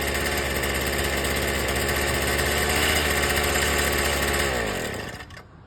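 Earthquake mini tiller's two-stroke engine running steadily, then slowing and stopping about a second before the end as it is shut off.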